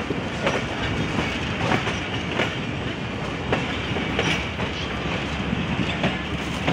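Passenger train pulling out of a station on a sharp curve: a steady running rumble with irregular clicks and clunks as the wheels pass over rail joints and points.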